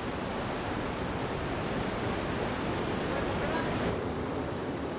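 Steady rushing noise of sea and wind around a ship. Faint voices sit under it, and the highest hiss drops away about four seconds in.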